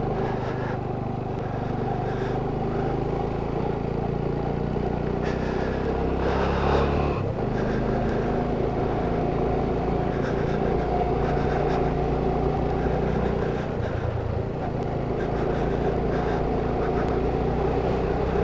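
Motorcycle engine running steadily while riding, under a steady rush of wind and road noise; the engine note changes about seven seconds in.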